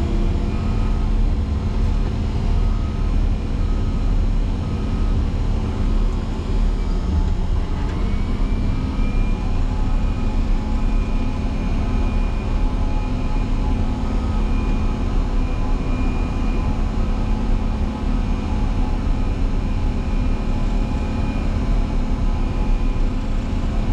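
Motor grader's diesel engine running steadily under load while pushing through deep snow; about a third of the way in its note drops and then picks back up. A faint repeating beep sounds alongside it.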